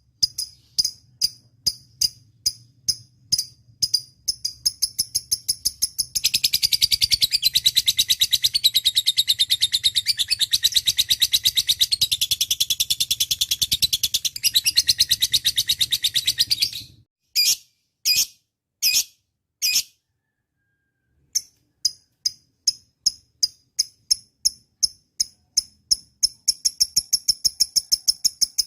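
Lovebird calling: sharp high chirps about two a second, then from about six seconds in a long unbroken rapid chattering trill lasting about eleven seconds that stops suddenly. A few separate calls follow, a short pause, then chirps again, quickening near the end.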